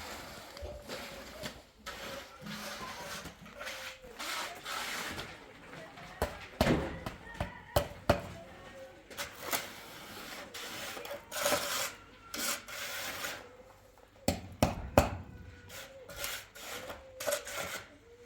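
A hand tool scraping irregularly over wet cement mortar, stroke after stroke, with a few sharp knocks.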